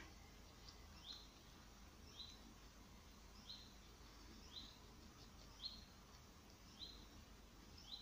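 Near silence with a faint, short, high chirp repeating evenly about once a second: a bird calling.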